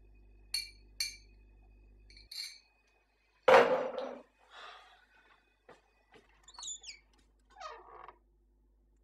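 Light clinks and knocks of handled household objects, with one loud clatter about three and a half seconds in. A low hum stops about two seconds in.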